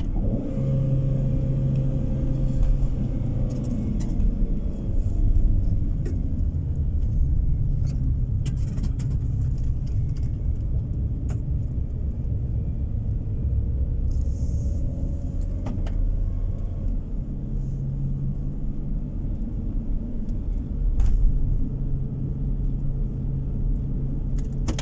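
A car driving, heard from inside the cabin: steady low road and engine rumble with a hum that comes and goes, and a few light clicks or rattles scattered through.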